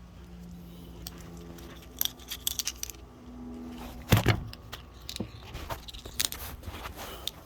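Light metallic clicking and rattling as small hydraulic cylinder parts and tools are handled, with one louder knock about four seconds in.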